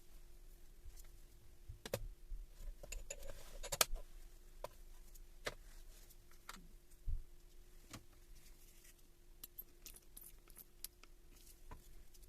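Scattered light clicks and metallic clinks of tools and small parts being handled on a workbench during a rebuild of a Hilti TE1000 breaker, over a faint steady hum.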